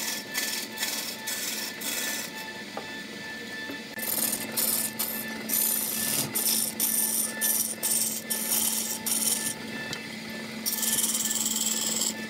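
Wood lathe turning a wooden cylinder while a hand-held cutting tool bites into it, tearing off shavings in repeated rasping strokes over a steady motor hum. The cuts come about three a second at first, pause briefly twice, and run steadier near the end.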